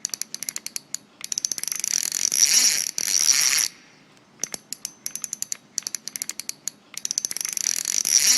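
Fishing reel ratcheting: runs of rapid clicks that quicken into a dense, louder stretch of a couple of seconds about a second in, and again near the end.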